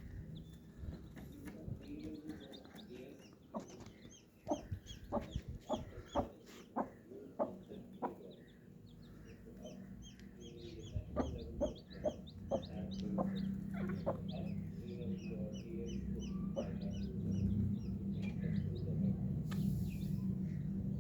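Hen clucking in short, sharp calls among a brood of chicks peeping rapidly in high chirps, with a steady low hum underneath in the second half.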